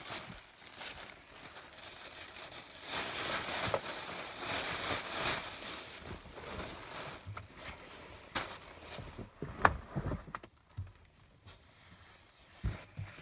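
Rustling and crinkling of items and trash being handled inside a car while it is cleaned out, with a couple of sharp knocks about eight and ten seconds in, then quieter handling near the end.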